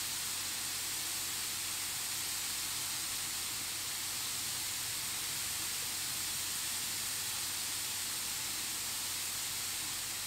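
Cauliflower rice frying in a pan, a steady even sizzling hiss.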